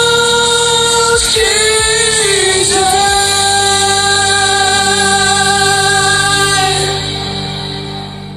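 Woman singing the end of a song over a karaoke backing track: a few bending, sliding notes, then one long held final note that stops about seven seconds in while the track fades out.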